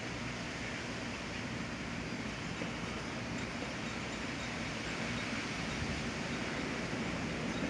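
Steady rush of strong winter-storm wind blowing snow, with a faint low hum underneath.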